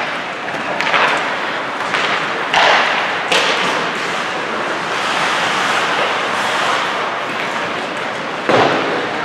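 Ice hockey game play echoing in an arena: several sharp knocks and thuds from puck and sticks on the ice and boards, one near the end, over steady rink noise.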